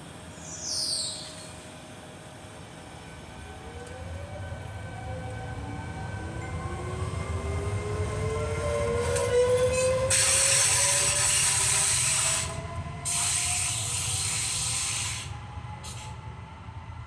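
A train passing: a low rumble builds over several seconds, with tones sliding in pitch as it goes by, and two loud stretches of high hissing about ten and thirteen seconds in, before it fades.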